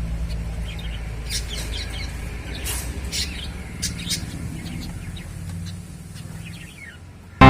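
Pet finches chirping in short, scattered calls, with a few sharp clicks between them.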